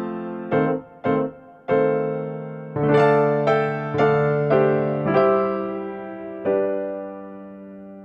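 Background music on piano or electric piano: a slow melody of single struck notes and chords, each ringing and fading before the next.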